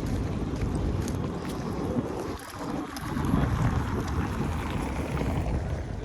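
Low, steady rumble of outdoor street noise with wind buffeting the microphone, dipping briefly about two and a half seconds in.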